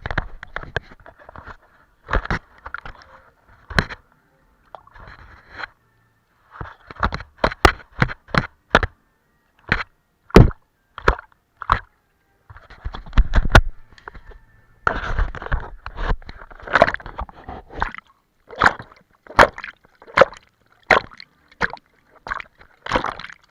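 Wet painting sounds: a loaded brush dabbing, slapping and smearing paint and water on a canvas, in irregular clusters of sharp taps and squishy strokes with short pauses between them.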